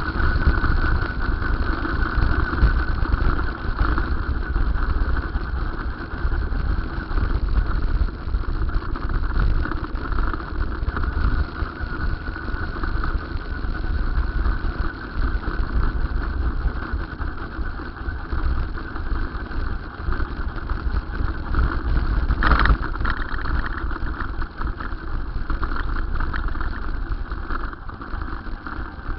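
Riding noise from an electric bicycle on the move: an uneven low rumble of wind on the microphone over a steady hum, with one brief sharp sound about 22 seconds in.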